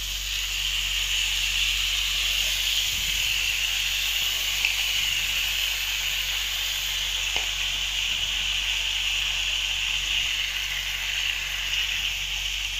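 Soaked rice, freshly added to hot oil and spice paste in a pan, sizzling with a steady hiss.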